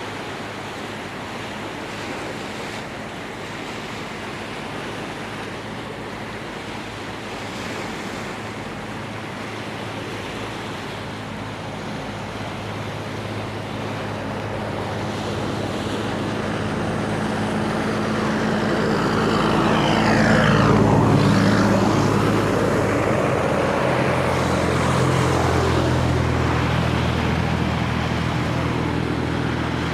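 A motor vehicle approaching and passing close by over a steady rushing background. It grows louder to a peak about twenty seconds in, its pitch sweeping down as it goes past, and a low engine hum carries on afterwards.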